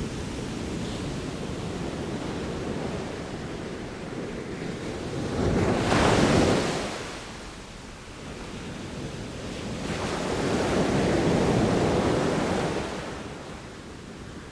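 Ocean waves breaking on the shore, with wind on the microphone. Two waves swell and wash in, a sharper one about halfway through and a longer, slower one near the end.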